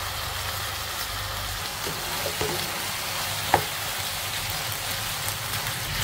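Sliced luffa and shrimp sizzling in a frying pan as they are stirred with a wooden spatula, with one sharp knock partway through.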